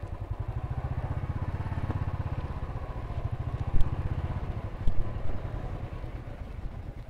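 Motorcycle engine running at low revs with a fast, even pulse, easing off after about five seconds, with two sharp clicks about four and five seconds in.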